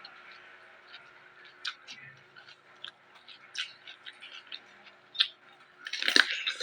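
Close-up chewing of raw vegetables: irregular crisp crunches, with a louder flurry of crunches about six seconds in.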